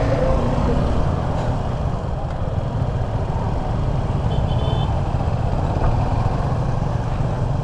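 Motorcycle running on the road: a steady low rumble of engine and wind on the rider's microphone. A brief faint high beep comes about halfway through.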